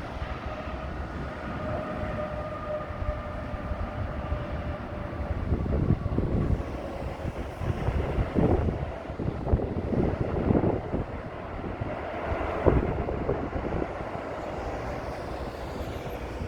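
Airbus A321neo airliner's jet engines running as it passes on a crosswind approach, a steady engine whine that slowly falls in pitch and fades, with wind buffeting the microphone in gusty thumps through the middle.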